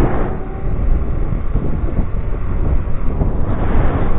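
Wind buffeting the microphone of a rider on a moving electric scooter: a loud, continuous low rumble, with a faint thin whine underneath.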